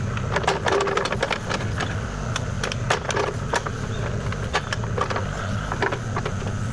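Kubota KX040 mini excavator's diesel engine running steadily, with many sharp cracks and knocks over it, thickest about half a second to a second and a half in, as the machine works brush and ground.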